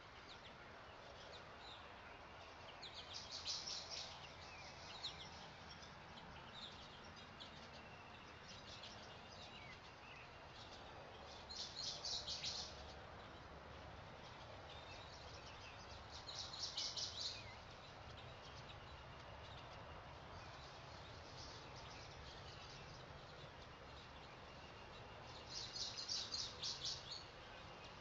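Faint outdoor nature ambience with bird trills: four short bursts of rapid chirping, a few seconds in, twice in the middle and near the end, over a low steady background hiss.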